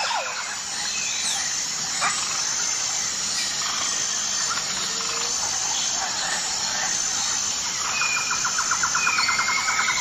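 Several birds chirping and calling, with short gliding whistles and a fast trill of rapid notes near the end, over a steady high-pitched background hiss.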